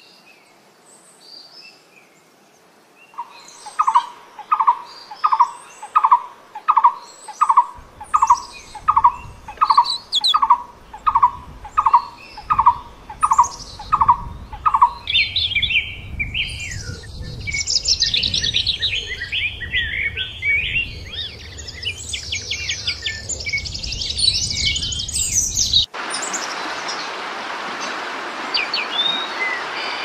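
Birds calling and singing: one bird repeats a short note about one and a half times a second for some twelve seconds, then several birds chirp and trill in higher voices over a low rumble. Near the end a steady hiss comes in under scattered chirps.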